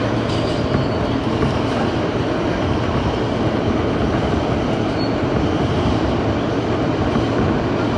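New York City Subway A express train running along the track: a steady rumble of wheels and car noise at even loudness.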